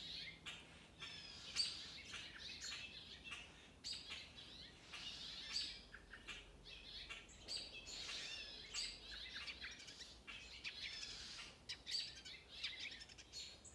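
Small songbirds chirping and calling over and over with short, high notes and trills.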